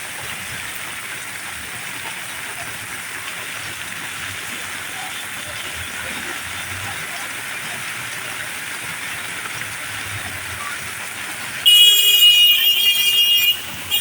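Steady hiss of heavy rain. Near the end a vehicle horn sounds loudly for nearly two seconds, then gives a short toot.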